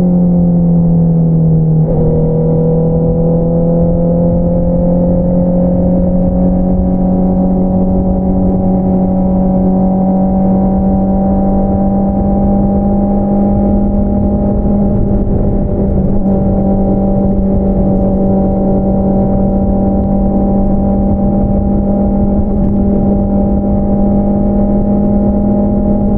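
2022 Honda CBR650R's inline-four engine running through an Akrapovič single-outlet exhaust while riding: the note falls over the first two seconds, then rises slowly and holds steady at a gentle cruise.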